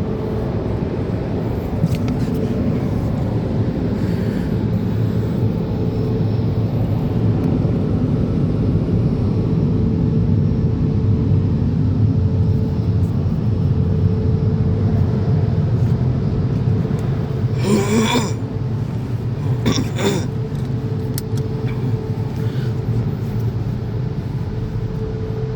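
Car wash dryer blowers running: a loud, steady rush of air with a constant hum. Two brief noises come about two-thirds of the way through, and the level drops right at the end.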